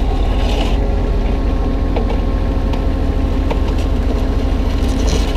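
Kubota U35-3 mini excavator's diesel engine running steadily under working load, with a steady hydraulic whine and a few light knocks from the arm and bucket handling chunks of broken concrete.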